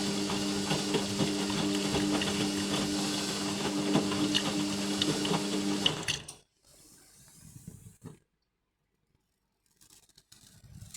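Indesit MTWC71252WUK washing machine's drum motor running with a steady hum while the drum turns the wet load, with small clicks and knocks. The motor stops about six seconds in, leaving a pause with faint clicks.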